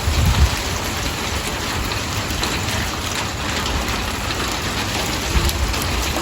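Heavy sleet mixed with rain: a steady dense hiss full of fine ticks as ice pellets hit surfaces. Gusts of wind buffet the microphone with a low rumble at the start and again near the end.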